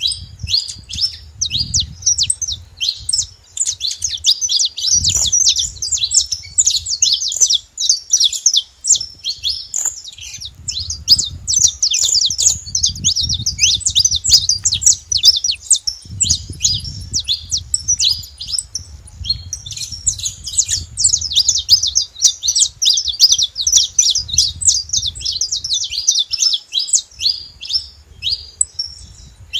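Wild saffron finches singing: a dense, almost unbroken stream of rapid high chirps. A low rumble comes and goes underneath.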